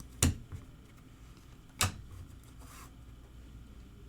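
Two sharp taps about a second and a half apart, with a softer tap just after the first, as trading cards are handled against a tabletop; a brief faint rustle follows near the end.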